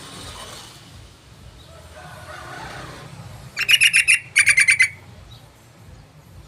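Yellow-vented bulbul giving two short bursts of rapid, pulsed chattering a little past halfway, each about half a second long and loud against faint background noise.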